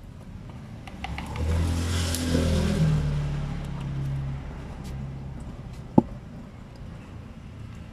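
A motor vehicle's engine passes by, swelling over about a second and then fading away over the next few seconds. A single sharp click comes about six seconds in.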